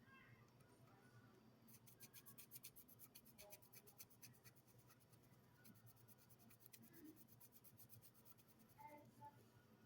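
Faint rapid scratchy strokes of a painting tool on paper, about ten a second, in two runs with a short pause between.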